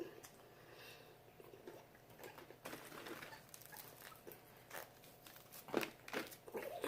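Chewing and mouth sounds of people eating fried chicken wings: scattered soft smacks and crunches, with a few louder ones about six seconds in.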